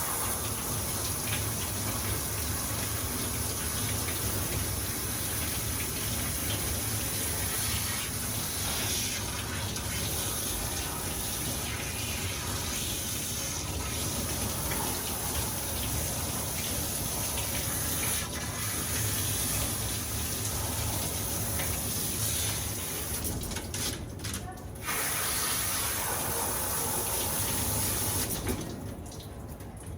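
Water running steadily from a tap during a cat's bath. It thins out briefly at about 24 s and drops away near the end.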